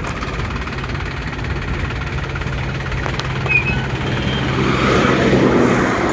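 Tractor engine running steadily, growing louder about four to five seconds in.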